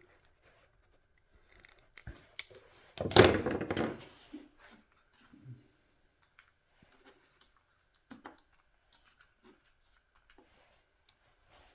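Small parts being handled on a workbench: scattered light clicks and rustles, with a louder rasping rustle lasting about a second, about three seconds in.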